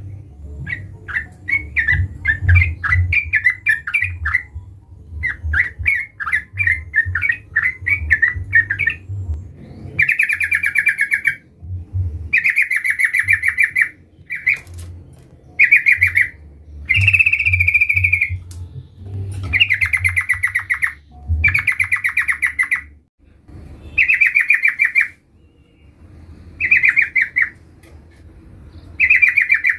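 Yellow-vented bulbul (trucukan) singing repeatedly in short, rapid, chattering phrases about a second long, separated by brief pauses.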